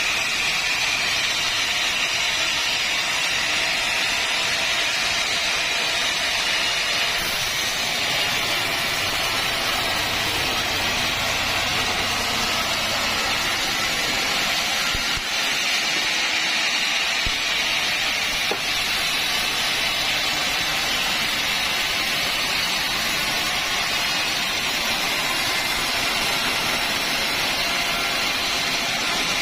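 Sawmill saw cutting through a mahogany log, a steady unbroken noise with the machine running under load.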